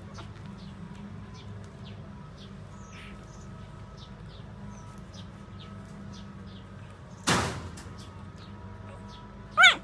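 Four-day-old puppies nursing: many faint short clicks over a steady low hum, a brief loud rush of noise about seven seconds in, and one short high-pitched squeak near the end.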